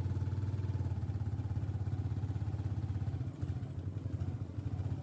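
A small engine running steadily with a fast even pulse. Its level dips briefly a little past the middle, then comes back.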